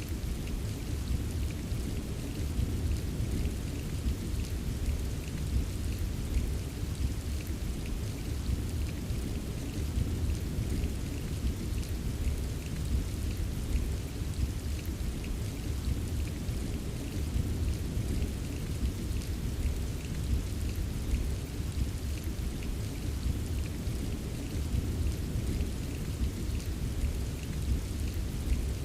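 Steady, unbroken rain ambience: a continuous low rumble with a fine hiss of drops ticking over it.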